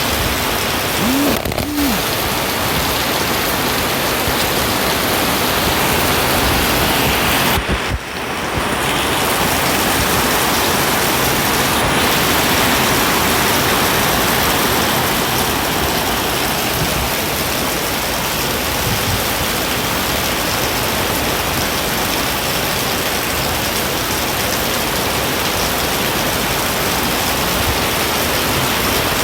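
Heavy rain pouring down steadily, a dense continuous hiss of drops on surfaces, with a brief drop in level about eight seconds in.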